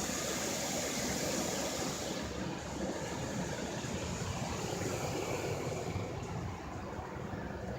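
Ryko SoftGloss XS2 rollover car wash running over the car, heard from inside the car: a steady spray of water over machinery hum. The high hiss of the spray drops away about two seconds in, leaving a lower steady rush.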